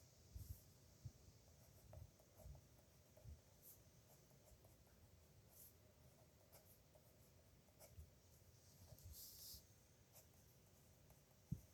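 Faint pen strokes scratching on paper, with soft low knocks scattered between them and one longer scratchy stroke about nine seconds in.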